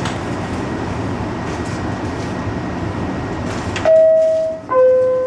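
New York City subway train rumbling steadily, then about four seconds in the rumble drops away and the descending two-note 'bing-bong' door chime sounds, the warning that the doors are about to close.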